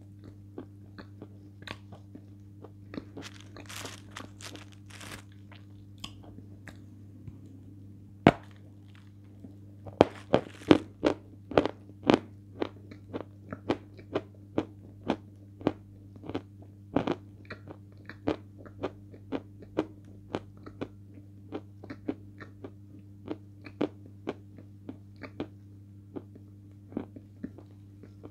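Close-miked crunching and chewing of hard pieces of edible chalk. There is soft chewing at first, then a single sharp crack of a bite about eight seconds in, followed by steady crisp crunches about two a second, loudest just after the bite. A constant low electrical hum runs underneath.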